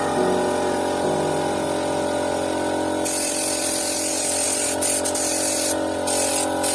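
A steady mechanical whine, then a paint spray hissing from about three seconds in, with a few brief breaks near the end.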